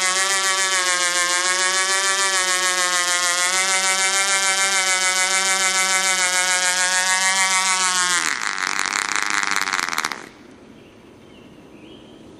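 Model helicopter engine running at a steady pitch with a slight regular pulsing, then winding down with falling pitch about eight seconds in and cutting off about two seconds later.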